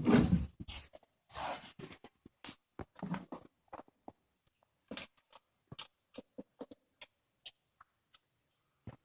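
A cat chewing and crunching on a squirrel carcass: irregular wet crunches and clicks, heaviest in the first second or so and again around a second and a half and three seconds in, then thinning to sparse soft ticks.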